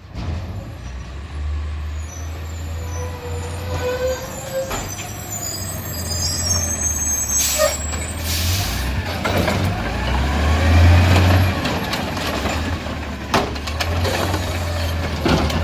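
Garbage truck's diesel engine running, with a short hiss of air about halfway through and the engine getting louder shortly after.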